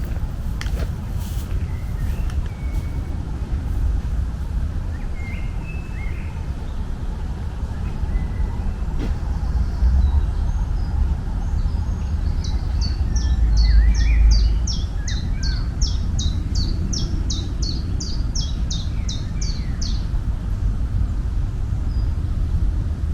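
Birds chirping over a steady low rumble. About halfway through, one bird gives a long run of quick, high repeated notes, roughly three a second, for about seven seconds.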